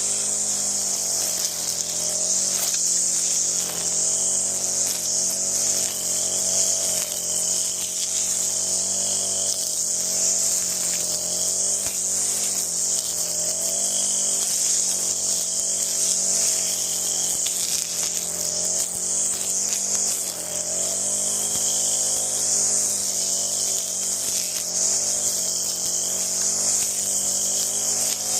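Stihl string trimmer's small two-stroke engine running steadily, its speed wavering slightly up and down.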